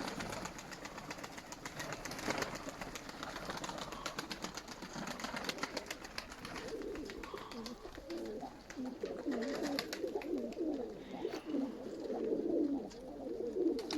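Nikolaev pigeons cooing, with wavering low coos growing from about halfway in, over many light clicks and rustles.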